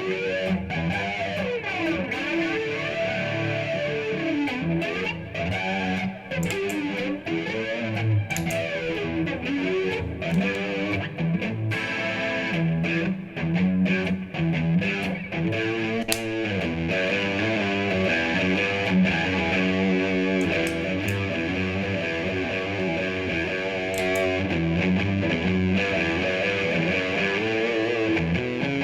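Electric guitar played through a Boss MS-3 effects switcher into a Bluguitar Amp1 amp, picking a run of changing notes and chords.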